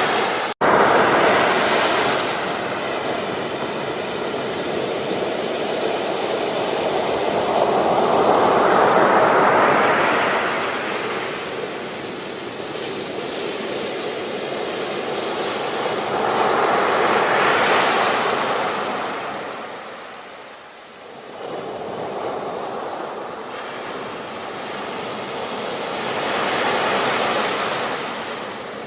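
Ocean surf breaking and washing up on a beach, the rush of water swelling and fading with a wave about every nine seconds. About half a second in there is a momentary gap in the sound.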